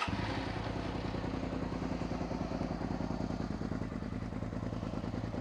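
Suzuki SV650S's V-twin engine idling steadily, fully warmed up, through a Beowulf aftermarket exhaust with its baffle removed.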